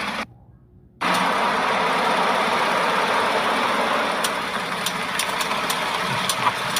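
Ford F-150 running with a light clicking from the front wheel area, irregular clicks coming in from about the middle on. This ticking is typical of a failing integrated wheel end, the vacuum-released front-hub four-wheel-drive actuator behind the wheel bearing, whose diaphragm has been damaged so it no longer pulls in all the way.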